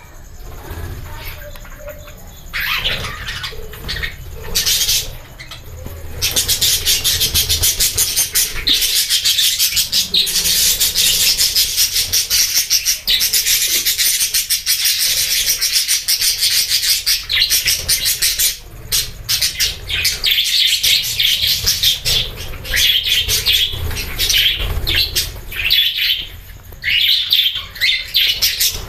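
A colony of budgerigars chattering: scattered chirps at first, then about six seconds in a dense, continuous high-pitched warbling chatter of many birds at once.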